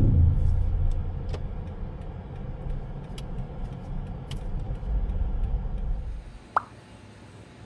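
Automatic car wash machine running: a low mechanical rumble with scattered clicks and knocks that dies away about six seconds in, followed by a single short beep.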